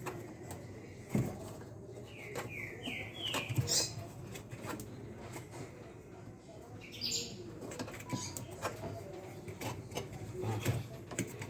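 Light clicks and knocks of washing-machine transmission parts being worked by hand, with a bird chirping in the background: a run of four quick falling chirps about two seconds in and another short call near the middle.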